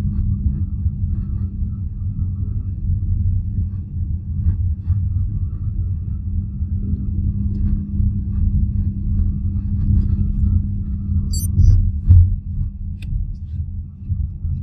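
BYD Atto 3 electric car on the move: low rumble with a steady low hum, the strange humming the owner hears between 20 and 32 km/h on top of the pedestrian safety sound. A brief high squeak about eleven and a half seconds in, and a short tick about a second later.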